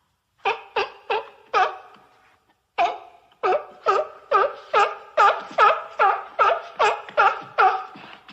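Sea lion barking: four short barks, a pause, then a fast run of about fifteen barks at roughly three a second.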